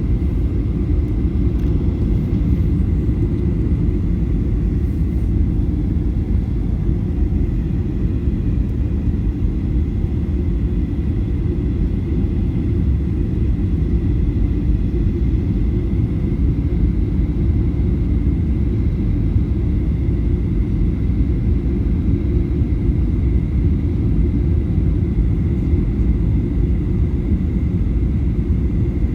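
Airliner cabin noise: a steady low roar of engines and airflow, with a faint steady high whine.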